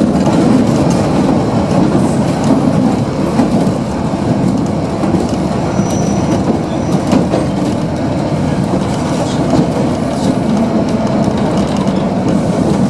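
Old electric suburban train heard from inside a carriage while running along the track: a steady low rumble with scattered wheel clicks, and a short high squeak about six seconds in.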